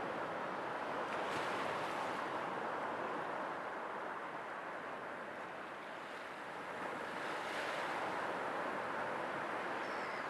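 Sea waves washing onto a shore, a steady rush of surf that swells and eases, with surges about a second in and again past the middle.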